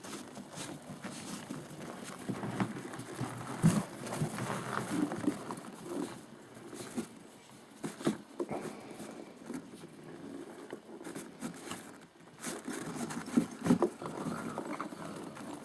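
Great Pyrenees puppies moving about, with irregular pattering and scattered sharp knocks.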